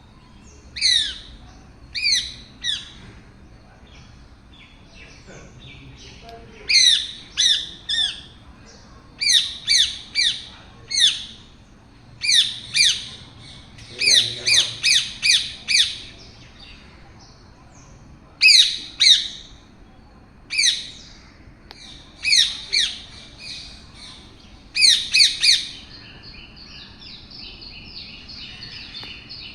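Parrot giving harsh, shrill squawks in quick runs of two to five, with pauses of a few seconds between runs. Near the end the calls turn softer and come as a fast chatter.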